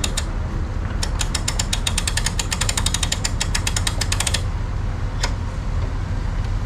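Boat trailer winch ratchet clicking rapidly, about ten clicks a second for some three seconds, with a single click a second later, over a steady low rumble.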